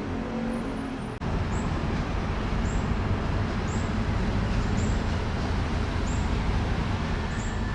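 Steady road noise of a vehicle on the move, a constant rumble and hiss; it cuts abruptly about a second in and resumes louder.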